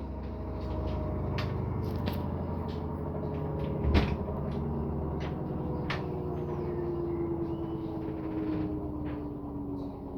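LG F6WV710P2S direct-drive washing machine spinning down after the spin is switched off: the motor's whine falls slowly in pitch over a low hum. Scattered light clicks are heard, and there is a single louder knock about four seconds in.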